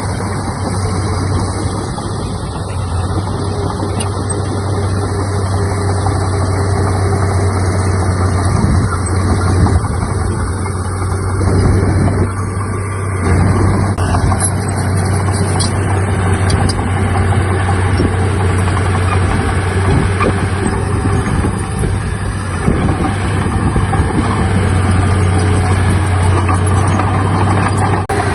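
Heavy diesel earthmoving machinery running steadily under work, a constant low engine hum with small rises and dips in loudness.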